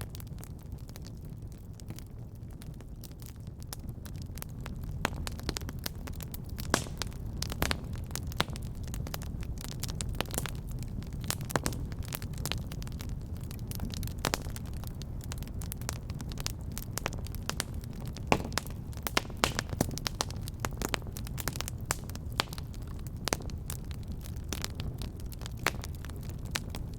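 Wood fire crackling in a fireplace: irregular sharp pops and snaps over a steady low rumble of the flames, the pops growing busier about five seconds in.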